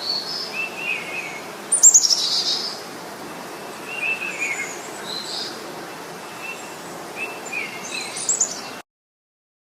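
Small birds singing, with repeated chirps and trills over a steady background hiss. The loudest burst comes about two seconds in. The sound cuts off abruptly shortly before the end.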